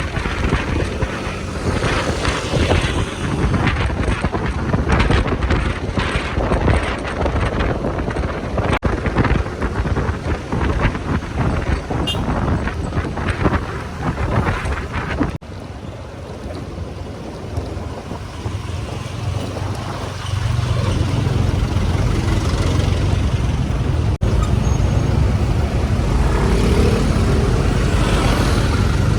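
Riding on a motorcycle: wind buffets the microphone over the engine's low running sound. About halfway through the wind noise drops off suddenly, and for the last third a steady low engine hum is louder.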